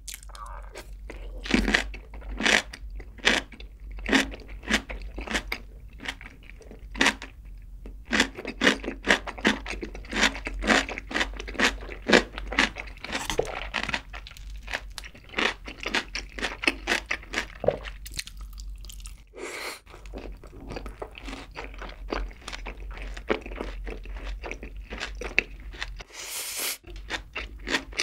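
Close-miked chewing: crisp stuffed-cucumber kimchi (oi-sobagi) crunching between the teeth in quick, sharp crunches, about two or three a second, then sauce-coated fried chicken being chewed. The chewing pauses briefly a little past the middle.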